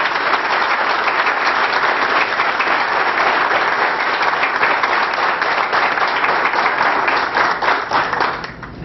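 A room audience applauding: a steady, dense round of clapping from many hands that dies away near the end.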